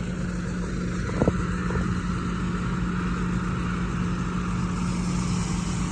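Diesel engine of heavy land-clearing equipment running steadily at an even pitch, with one short knock about a second in.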